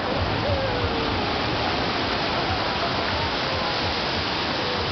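Ocean surf breaking and washing up the beach: a steady, full rushing hiss.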